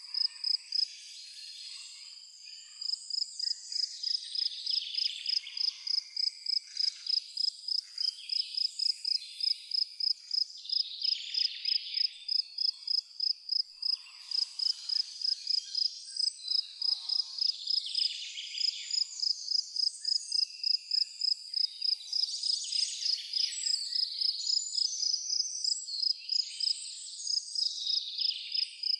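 A cricket chirping in a steady, even rhythm of about three chirps a second, pausing briefly about a second in, while birds sing on and off over it.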